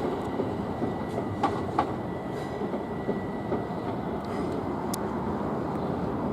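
Southern Class 377 electric multiple-unit train rolling along the track, its wheels clicking over rail joints a few times. A steady high whine stops about four seconds in.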